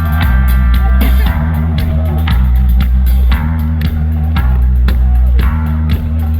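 Live rock band playing at concert volume, with a heavy bass line, drums and guitar, heard from the crowd.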